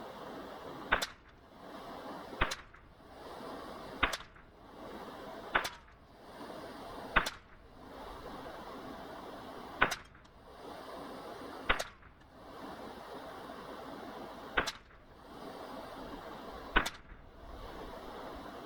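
Suppressed .22 LR rifle firing single shots at a slow, steady pace: about nine sharp cracks, one every two seconds or so.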